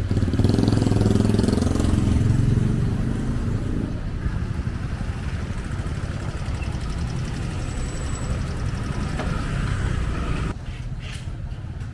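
Engine running close by, strongest in the first four seconds, then easing into steady street noise. The sound drops suddenly near the end.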